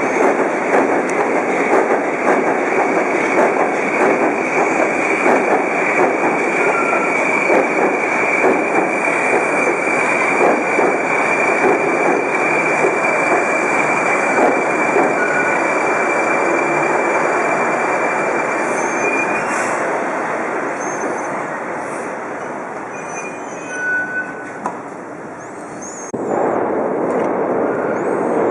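Moscow metro train running loudly on the rails, with a steady high whine over the rumble that stops about two-thirds of the way through. The noise eases briefly, then swells again abruptly near the end.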